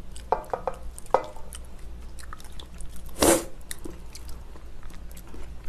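Close-up eating sounds: chewing, with small clicks of dishes and utensils. One louder, short noisy sound comes about three seconds in.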